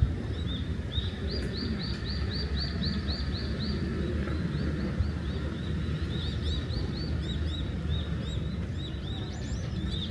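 Birds chirping in fast repeated series of short high notes, several a second, over a steady low rumble.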